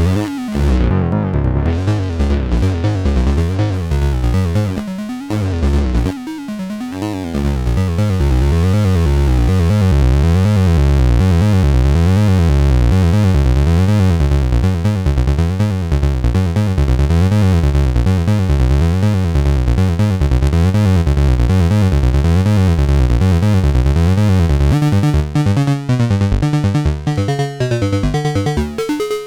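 Synthesizer jam on a Behringer Neutron and a Donner B1 bass synth: a repeating, pulsing bass sequence whose tone sweeps brighter and darker in a regular up-and-down cycle. It thins out briefly about five seconds in and turns choppier near the end.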